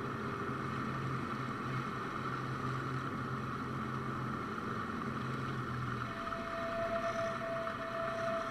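Steady cockpit noise of a Cessna 172, its engine running low. A thin steady tone joins in about six seconds in.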